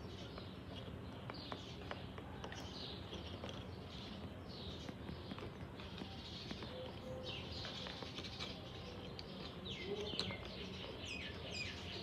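Birds chirping over and over in short, high, falling notes, mixed with scattered sharp clicks of a parakeet's beak biting a plastic bottle cap.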